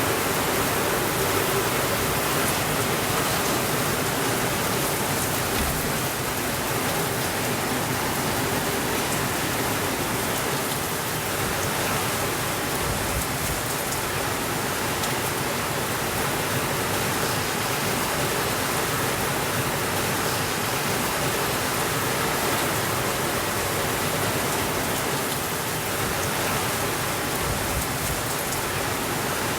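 Steady rainfall, a constant even hiss of many drops with no thunder and no change in strength.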